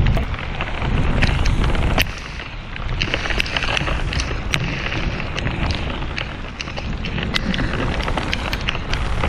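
Heavy rain pelting the boat and the camera, with many sharp drop ticks over a steady hiss and wind buffeting the microphone in low gusts.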